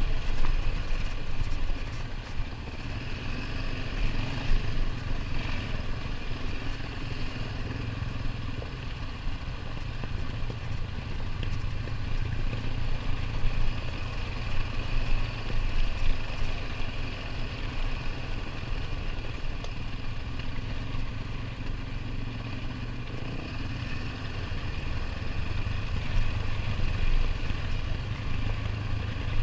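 ATV engine running steadily as the machine travels along a dirt trail, a continuous low hum whose loudness wavers slightly.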